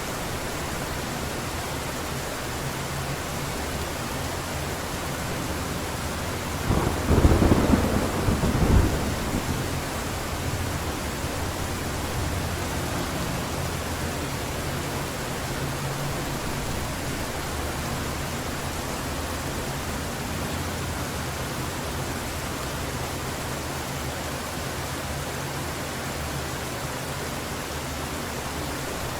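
Heavy rain falling steadily, with a loud clap and rumble of thunder about seven seconds in that lasts about two seconds.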